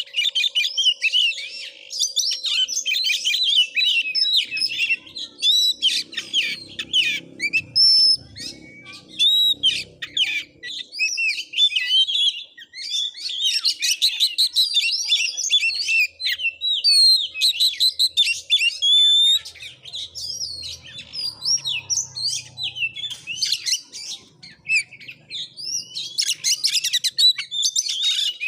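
Oriental magpie-robins (kacer) singing nearly non-stop, a fast, varied jumble of sharp chirps, trills and whistles.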